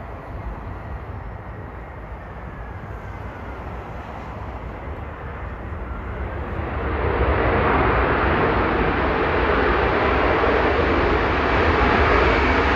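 An aircraft's engines growing louder as the plane approaches, rising sharply about seven seconds in to a steady loud roar. Wind buffets the microphone with a low rumble throughout.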